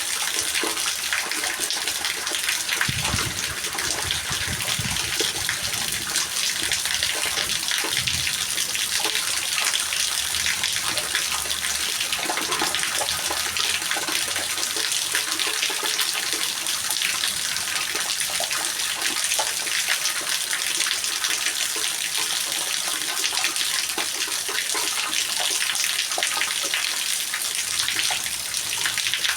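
Steady heavy rain: a dense, even hiss of many falling drops, with a few low thuds about three to eight seconds in.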